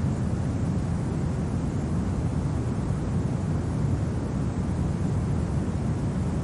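Winter wind ambience: a steady, low rumbling noise with no separate sounds in it.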